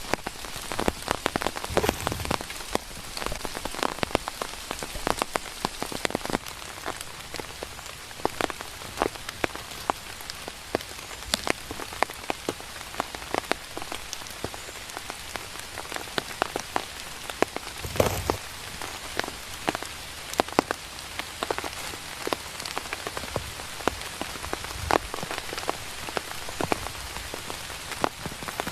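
Steady rain, with many separate drops striking close by in sharp irregular ticks over a constant hiss, and a few heavier low thumps, one about two seconds in and one just past the middle.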